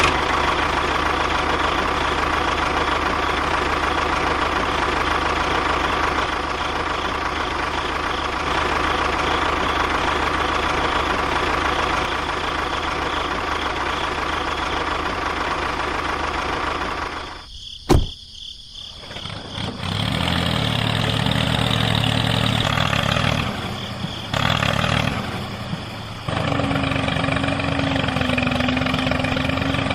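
Motor running steadily. A sharp click and a brief drop come about two-thirds of the way in, then a different motor sound with a steady low hum.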